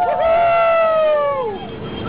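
Several people's high-pitched voices holding a long, drawn-out cry that slides down and fades out about three-quarters of the way through.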